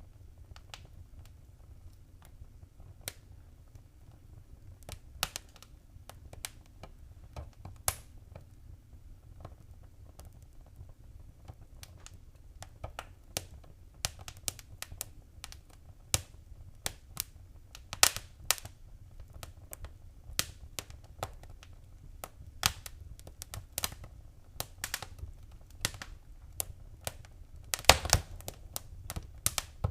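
Wood fire crackling: irregular sharp pops and snaps over a low steady rumble, sparse at first and coming more often after about twelve seconds, with the loudest burst of pops near the end.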